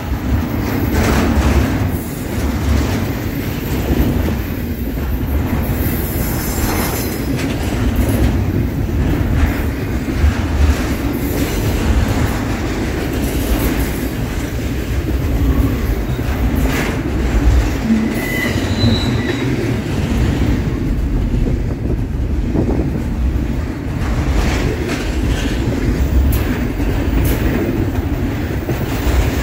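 Double-stack intermodal freight train's container well cars rolling past at speed: a steady rumble of steel wheels on rail with scattered clicks over the rail joints, and a brief thin wheel squeal about two-thirds of the way through.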